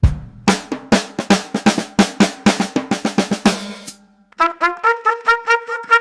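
Music: a fast run of drum strikes for about four seconds, then a quick series of short repeated brass notes, like a trumpet fanfare.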